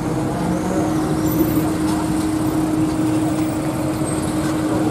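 Classic cars crawling past at walking pace with their engines running, a Peugeot 204 passing close by; a steady low drone underneath.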